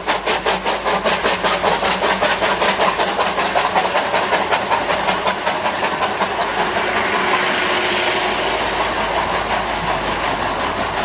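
Narrow-gauge steam locomotive working, its exhaust beating rapidly and evenly at about five beats a second. About six seconds in the beats blur into a steady hiss, and fainter beats come back near the end.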